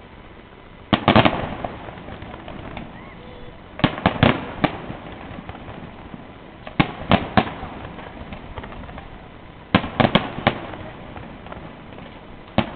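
Fireworks display, shells bursting in quick groups of three or four bangs, one group about every three seconds.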